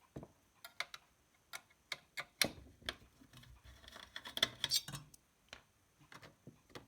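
Irregular sharp clicks and taps, with a short stretch of rustling about halfway through, from handling the opened car stereo unit and its circuit board.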